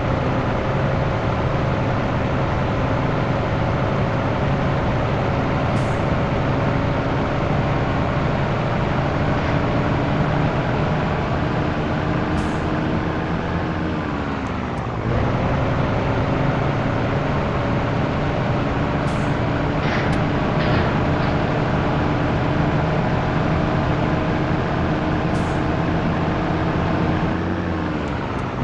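Scania T113 truck's diesel engine pulling under load. The revs climb slowly, then fall sharply about halfway through and again near the end as gears are changed.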